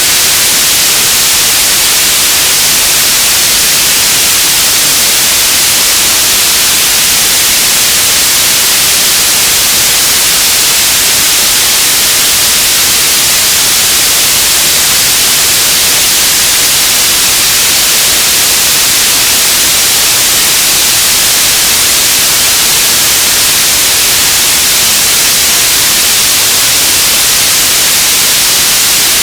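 Radio static: a steady, loud hiss with its energy in the upper range, unchanging throughout.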